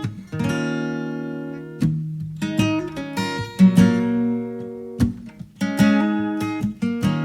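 Acoustic guitar strummed in slow chords, each chord struck sharply and left to ring out before the next, about every second or two.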